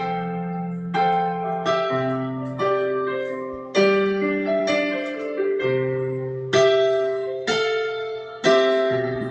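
Solo piano playing a slow instrumental passage of a ballad, one chord struck about every second and left to fade.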